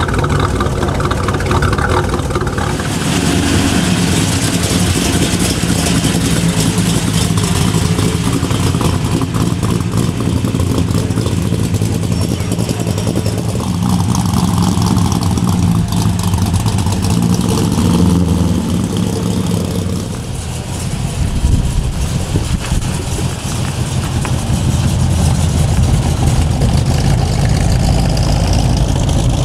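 Loud muscle-car engines running and revving, their pitch shifting several times, with a steady hiss over the top from about three seconds in.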